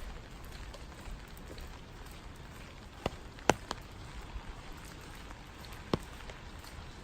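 Steady rain falling, with a few louder single drops tapping close by, the loudest about three and a half seconds in.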